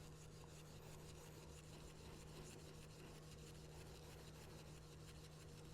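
Very faint scrubbing of a brass wire brush on a carbon-steel pocket knife, working rust and patina out of a groove, barely above a steady low hum.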